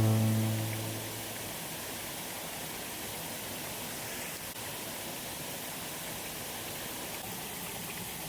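Steady rush of falling water from a waterfall, as the last chord of a strummed guitar song dies away in the first second.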